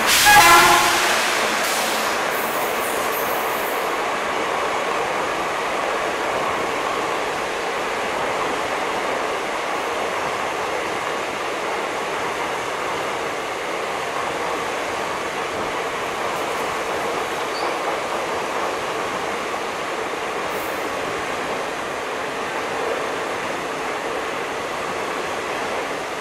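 Indian Railways passenger train running past on the rails, a steady rumble of coach wheels over the track. It opens with a brief, loud horn blast in the first second.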